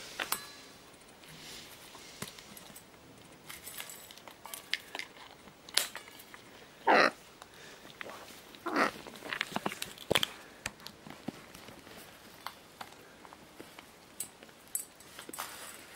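Scarlet macaws clicking and scraping with their beaks and feet on household objects, scattered sharp clicks with a few louder short sounds about six, seven and nine to ten seconds in.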